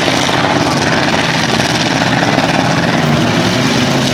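Demolition derby truck engines running loud and steady, with no clear crash impact.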